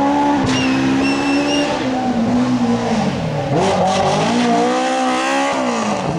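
Rally car engine under hard driving, its revs dropping and climbing again twice as the driver lifts off and gets back on the throttle. A brief high squeal sounds over the engine about half a second in.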